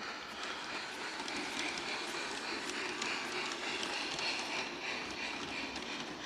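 Bachmann Big Hauler G-scale model locomotive running slowly on its track: a steady whir of the electric motor and gearing with a rapid, uneven clicking of the wheels on the rails.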